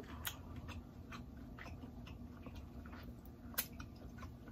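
Faint close-up chewing with the mouth closed: scattered soft wet clicks and smacks, with two sharper clicks, one just after the start and one about three and a half seconds in.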